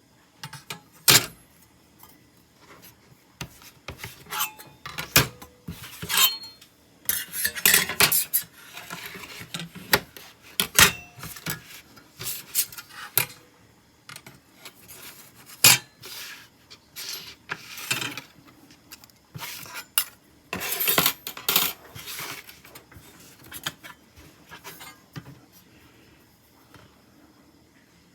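Irregular clinks and knocks of hard, metal-sounding objects being handled, with stretches of scraping in between.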